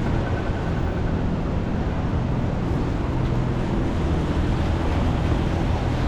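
Steady city street traffic: a low rumble of vehicle engines and tyres hissing on wet pavement, with a faint engine hum underneath.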